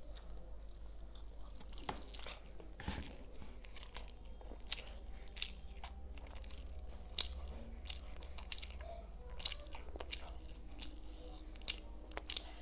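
Close-miked chewing of a mouthful of chicken momo: irregular wet clicks and smacks of the mouth working, with one soft knock about three seconds in, over a faint low hum.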